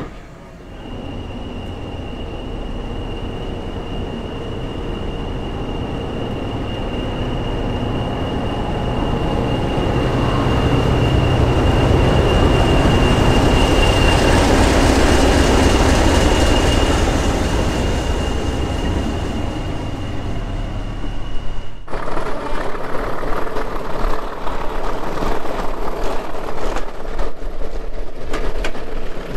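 A heritage train running, growing louder to a peak about halfway and easing off, with a steady high-pitched whine over it. About two-thirds of the way in the sound cuts abruptly to a rattling train sound full of sharp clicks.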